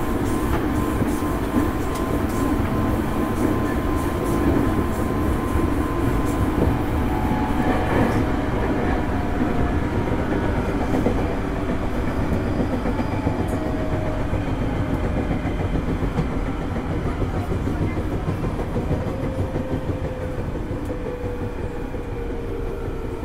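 Running noise of a JR East 205 series electric commuter train heard from inside the car: steady wheel-and-rail rumble with a light clickety-clack over rail joints and faint motor and gear hum. Near the end the hum slowly drops in pitch and the noise eases a little as the train slows.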